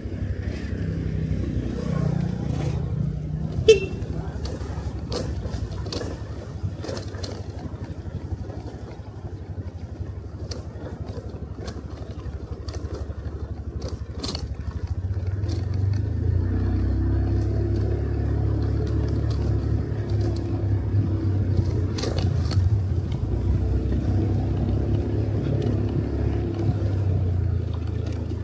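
Motorcycle engine running while under way, with road noise and scattered light clicks and rattles. The engine gets louder and fuller from about halfway through. A short sharp chirp stands out a few seconds in.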